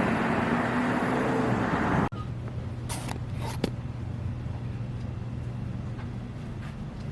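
Road traffic noise for about two seconds, which cuts off abruptly to a quieter steady low hum with a few brief high sounds.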